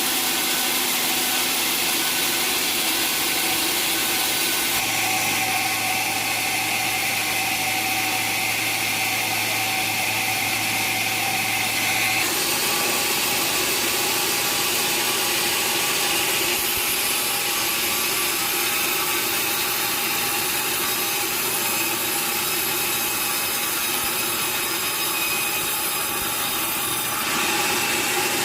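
Sawmill saw cutting through timber: a continuous, steady machine-and-cutting noise whose tone shifts a few times as the cut goes on.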